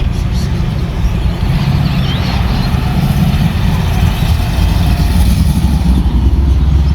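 Car engine running with a steady low drone that grows a little louder from about three seconds in.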